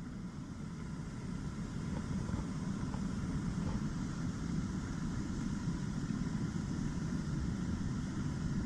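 Floodwater rushing steadily down an overflowing mountain channel after a typhoon, a dense low rush that grows a little louder in the first few seconds.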